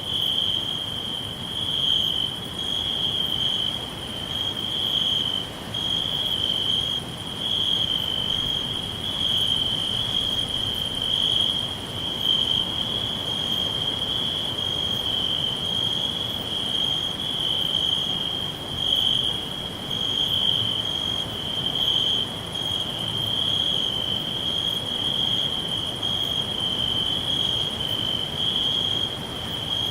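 Crickets chirping without pause in a high, steady, pulsing trill, over a faint even hiss.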